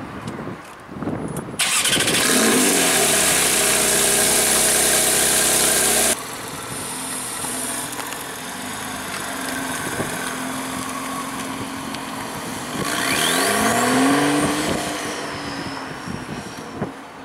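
Supercar engines accelerating hard. One car's engine rises in pitch and stays loud for about four and a half seconds, then cuts off abruptly. After a stretch of quieter engine sound, a second engine revs up near the end, with a high whistle rising and then falling over it.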